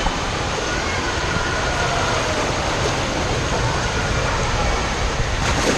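Steady loud rush of splashing, running water on a kiddy-pool water slide, with the echoing din of an indoor waterpark and faint voices in it.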